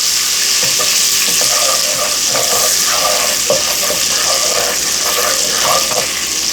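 Butter sizzling in a hot pot over medium-high heat: a steady hiss with scattered small pops and spatters.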